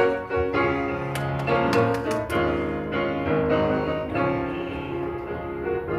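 Piano playing the introduction to a gospel song, a series of struck chords that ring on, the first ones coming quickly and then sustained and slower.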